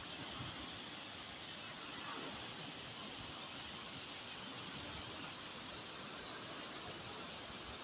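Steady rushing noise of the Indus River's fast-flowing water, an even hiss with no breaks.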